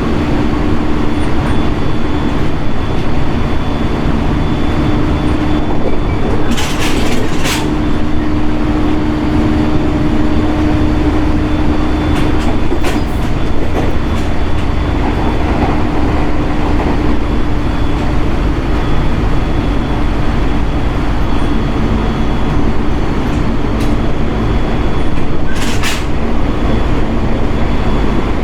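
JR East 701 series electric multiple unit running along the line, heard from inside the car: steady wheel-and-rail running noise with a low steady hum, and a few sharp clicks about seven seconds in and again near the end.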